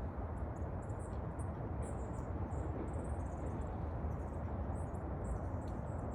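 Small birds calling, with many short high-pitched chirps and twitters coming in quick succession, over a steady low background rumble.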